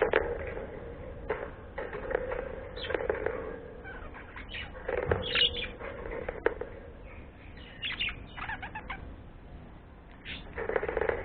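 Pet bird activity: irregular bursts of wing flapping and rustling, with a few short chirps and sharp clicks.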